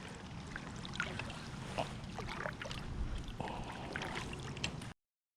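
Faint water lapping around a kayak with small scattered knocks and clicks, cutting off abruptly about five seconds in.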